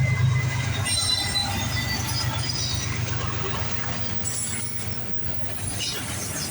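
Freight train passing: a diesel distributed-power locomotive's engine drones low and fades after about three seconds, while the rolling cars' wheels squeal in thin high tones.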